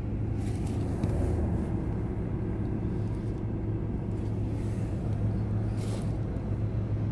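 Steady low hum of a car idling, heard from inside the cabin, with two brief rushes of noise about half a second in and near six seconds.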